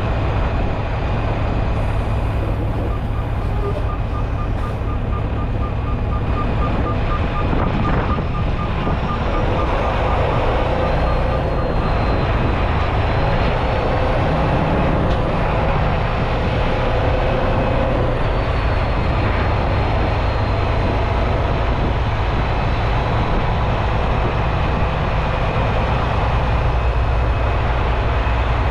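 Semi-truck running, with steady engine and road noise. From about three seconds in to about twelve, a quick series of high beeps sounds over it.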